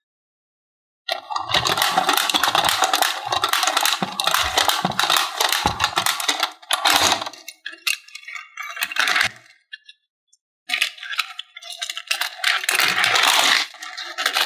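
Small diecast toy cars clattering and clinking against each other and a plastic playset in quick, irregular runs of sharp clicks, stopping briefly about ten seconds in.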